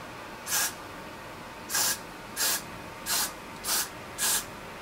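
Got2b Glued Blasting Freeze Spray hairspray can spraying in six short bursts, each about a fifth of a second long, coming faster toward the end.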